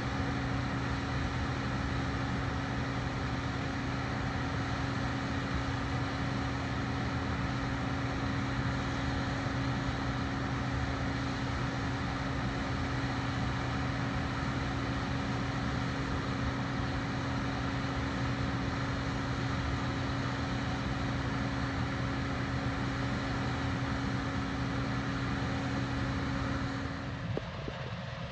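Combine harvester running steadily with a constant engine drone, until the sound cuts off near the end.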